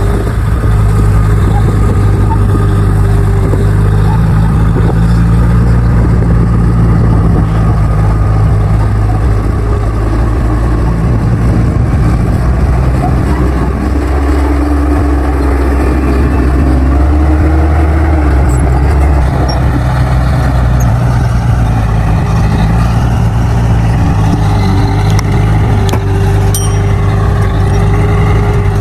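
Bulldozer's diesel engine running steadily under load. Its note changes for a few seconds about halfway through, then settles back to the earlier pitch.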